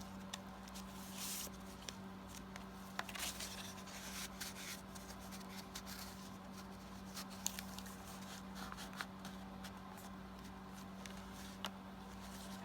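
Paper tags and cardstock being handled and swapped: faint rustling with scattered small clicks and taps, over a steady low electrical hum.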